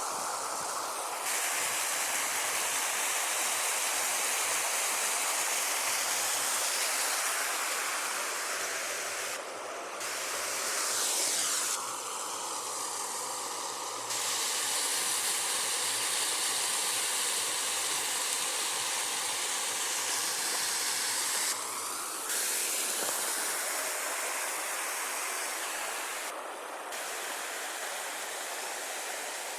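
Steady rushing of water falling over the hot spring's waterfalls.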